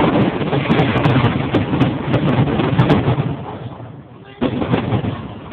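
Fireworks going off in a rapid barrage of bangs and crackling that dies down, then another burst about four and a half seconds in.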